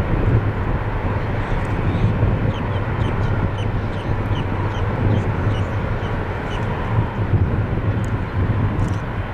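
Boeing 747-400's four Rolls-Royce RB211 turbofans at takeoff power: a loud, steady, deep rumble. A bird chirps repeatedly over it in the middle, short falling notes about three a second.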